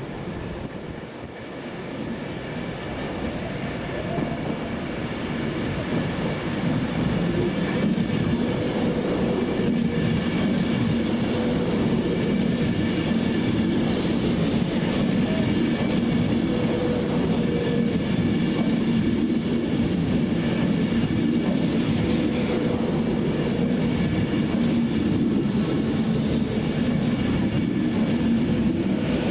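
Steady vehicle noise: a continuous rumble with a low hum and a few faint higher tones, growing louder over the first eight seconds or so and then holding steady.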